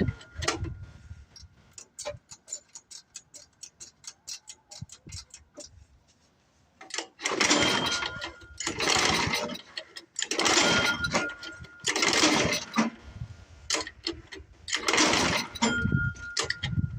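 Tecumseh small engine on an old Craftsman 24-inch snowblower being pull-started over and over, cranking on its recoil starter without catching, though it sounds like it wants to fire. Before the pulls there is a run of light clicks.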